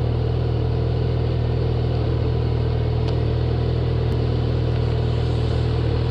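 A vehicle engine running steadily at an unchanging pitch.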